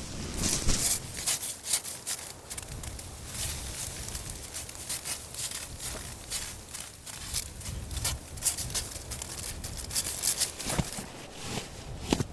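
Camping gear being handled close up inside a tarp shelter: a dense, irregular run of sharp crinkles and clicks over a steady low rumble, with a couple of louder knocks near the end.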